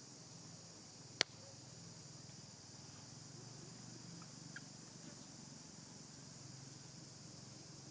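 Faint, steady high-pitched chirring of insects, with one sharp click about a second in.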